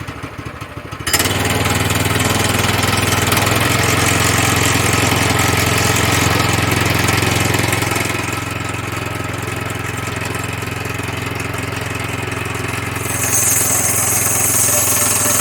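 Small gasoline engine of a portable bandsaw mill running. About a second in, the sound jumps up as the band blade is driven into the cut, and it carries on steady with a wide hiss over the engine's pulse. The throttle was set far too low, running at only about quarter speed, so the saw cuts slowly and bogs down.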